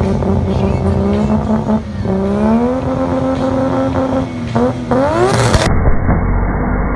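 Toyota 1JZ straight-six in a Mazda RX7 drift car held at high revs during a burnout. Its note climbs about two seconds in, dips briefly, then rises sharply before the sound cuts to a dull, low rumble near the end.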